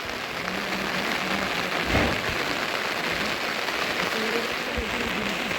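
Heavy monsoon rain falling steadily, with a dull thump about two seconds in.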